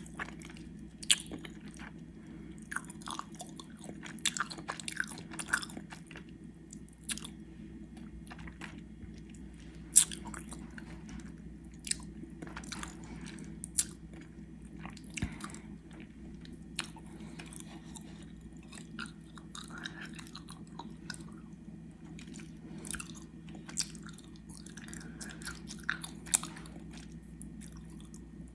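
Close-miked chewing of gummy worms: wet, sticky smacks and sharp mouth clicks at an irregular pace, over a steady low hum.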